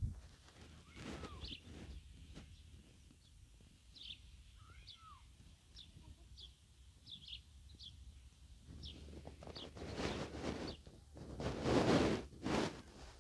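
Small birds chirping: short, high chirps scattered throughout, with a couple of lower gliding calls about one and five seconds in. A louder, noisy rush in the last four seconds covers the chirps.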